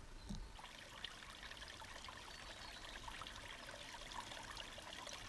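Faint running water, a small stream trickling, starting abruptly just under half a second in and then holding steady.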